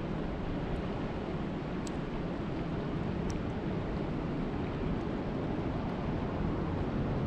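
Steady rushing of lake water, mostly low and even, with a few faint ticks.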